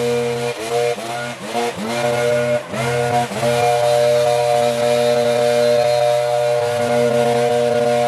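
Small petrol engine of a garden power tool running at high revs. It bogs down and picks back up several times in the first few seconds, as if cutting into load, then runs steadily.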